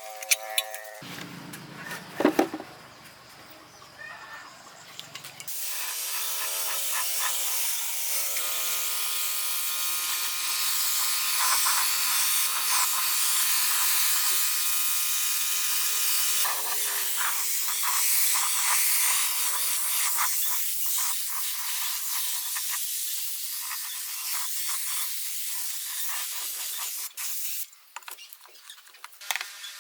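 Two sharp knocks, then a steady hiss of compressed air starts about five seconds in and runs for some twenty seconds, with a steady machine hum under the middle part of it.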